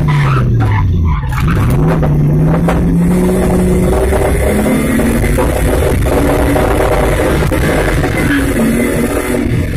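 BMW 320i rally car's engine heard from inside the cabin under hard driving. The pitch drops as the driver lifts in the first second, climbs for about three seconds, then rises and falls through several gear changes, over steady road and tyre noise.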